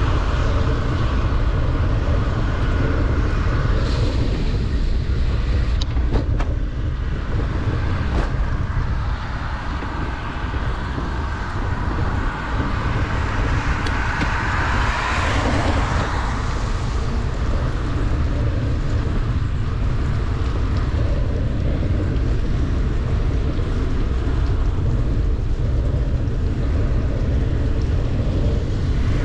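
Wind rumbling on the microphone of a bicycle riding downhill in heavy rain, over a steady hiss of tyres and rain on the wet road. The noise swells briefly about halfway through, as from passing traffic.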